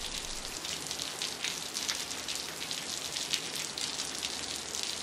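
Steady rain falling, a dense patter of separate drops over an even hiss.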